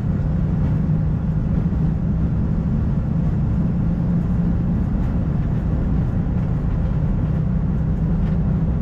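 Steady flight-deck noise of an Airbus A220-300 in the climb: an even rumble of airflow and engine noise with a faint steady hum.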